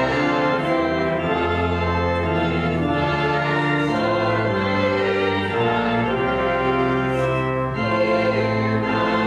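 Church pipe organ, newly rebuilt, playing held chords that change about once a second at a steady level.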